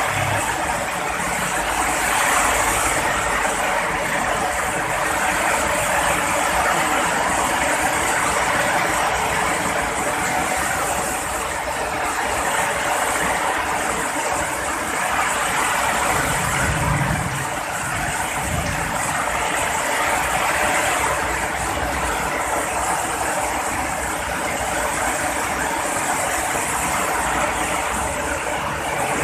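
Heavy rain falling steadily, a continuous even hiss, with a brief low rumble a little past the middle.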